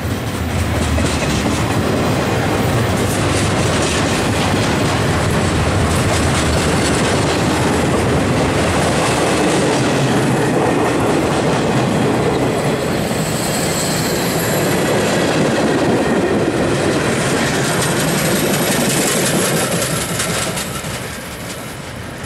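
Freight cars of a CSX maintenance-of-way train, flatcars loaded with track machines, rolling past: steady clickety-clack of steel wheels over the rails, with brief high-pitched wheel squeals about halfway through and again later. The noise falls off near the end as the last cars go by.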